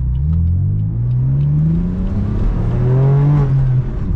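BMW M4 F82's twin-turbo inline-six accelerating hard from a stop through its AWE SwitchPath exhaust, the engine note climbing in pitch and dropping back at each manual upshift, about three pulls in all.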